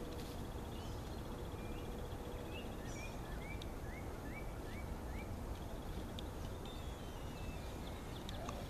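Outdoor ambience with a steady low background rumble, in which a songbird sings a run of short rising whistled notes for a few seconds in the middle. A high, fast-pulsing trill is heard at the start and again near the end.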